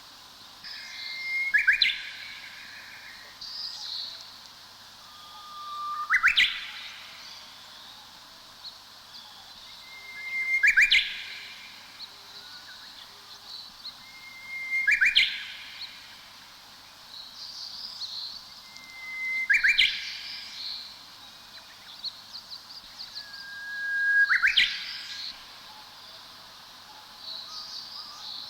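A songbird singing the same short song about every four to five seconds, seven times: a held whistled note that breaks into a quick upward-sweeping flourish, with softer high twitters from other birds in between.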